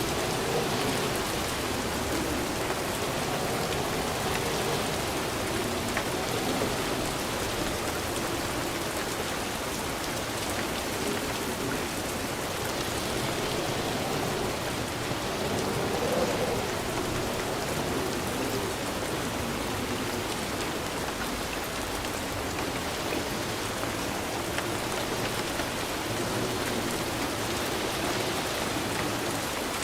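Steady rain falling on a surface, a continuous even patter with no thunder.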